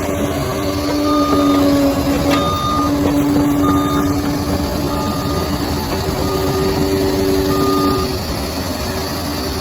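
Bulldozer's diesel engine running under load with a steady whine over a low rumble, while its reversing alarm beeps about once a second.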